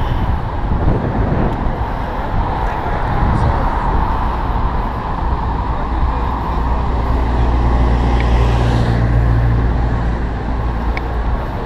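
City street traffic heard from a moving bicycle, with a steady rush of noise on the action-camera microphone. A vehicle engine's low rumble swells from about six seconds in and fades before the end.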